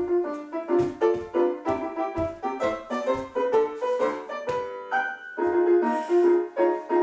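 Instrumental piano music, a fast run of struck notes with a steady pulse and a few longer held notes near the end.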